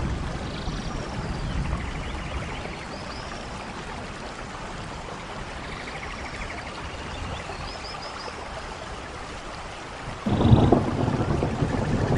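Steady rain falling, with a few faint high chirps. About ten seconds in a loud, low rumble of thunder sets in suddenly and carries on.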